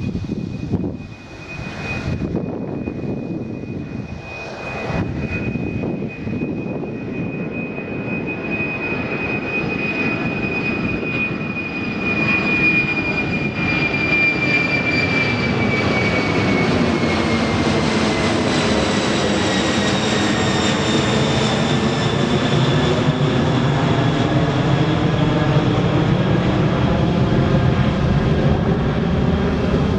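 Jet airliner passing close by. A high engine whine slowly drops in pitch as the plane goes by, while the deep engine rumble grows louder and stays loud.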